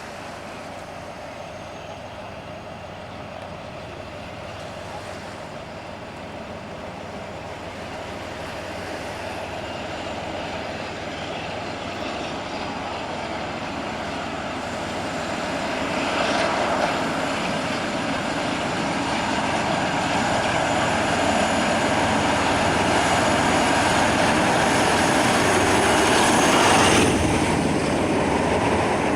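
A train approaching along the line, its engine and running noise growing steadily louder over about half a minute.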